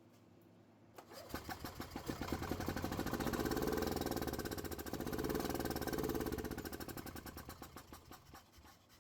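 Gas Club Car golf cart engine cranking and catching on sprayed starter fluid after a click about a second in, running briefly with its speed rising and falling, then slowing and dying out near the end. It runs only on the starter fluid: the carburetor is not getting fuel to it.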